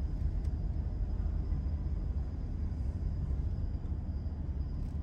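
A steady low rumble with no distinct events, with a faint thin high tone over it.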